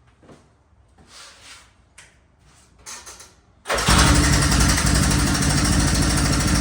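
A few light clicks and scuffs, then the 1981 Honda 185S's single-cylinder four-stroke engine catches on one recoil pull about three and a half seconds in and keeps running steadily. A first-pull start that the owner credits to the timing adjustment just made.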